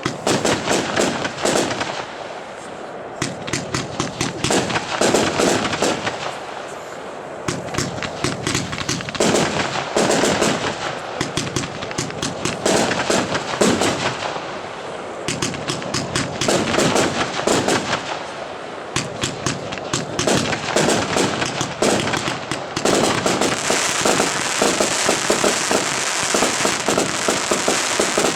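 A 144-shot, 25 mm compound firework cake firing a rapid, continuous stream of shots and bursts. The fire comes in surges every few seconds and grows denser over the last few seconds.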